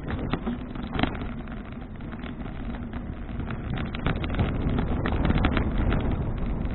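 Wind buffeting the microphone of an action camera on a moving touring bicycle, with a low rumble and frequent short clicks and rattles from the bike.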